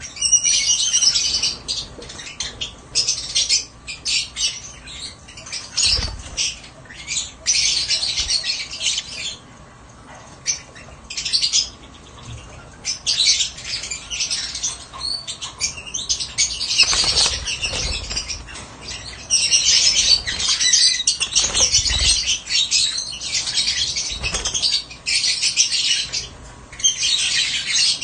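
Lovebirds chirping and squawking in rapid, high-pitched bouts, almost without pause, with a brief lull around ten seconds in. A few soft low thumps are heard among the calls.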